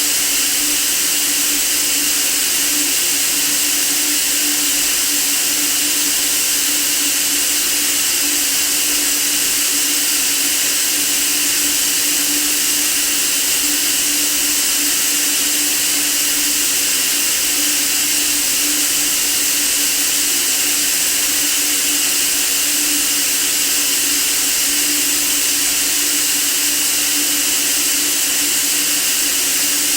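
Continuous white noise for sleep: an even, unchanging hiss weighted toward the high end, with a faint steady hum underneath.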